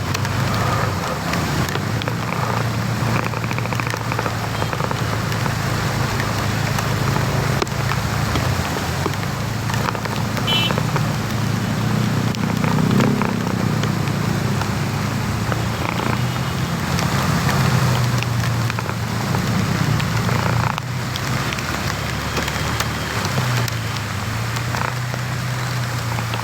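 Rain falling, with a vehicle engine running steadily underneath as a low hum.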